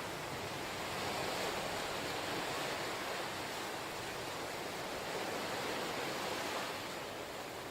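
Ocean surf washing onto the shore: a steady rushing hiss of breaking waves that swells twice and eases off near the end.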